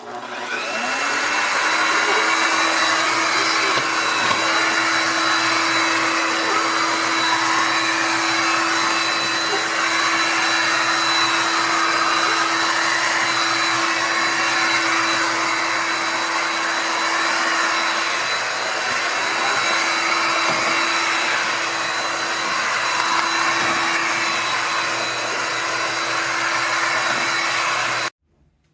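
Shark HydroVac MessMaster cordless wet-dry vacuum mop running. The motor spins up at the start, runs at a steady pitch with a whine, and cuts off suddenly near the end.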